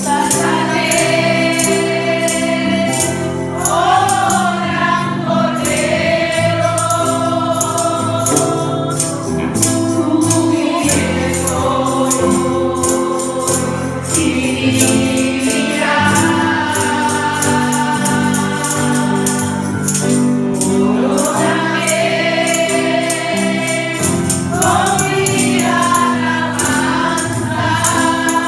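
Congregational worship music: a group of voices singing a Spanish-language praise song with instrumental backing and a steady, shaken high percussion beat.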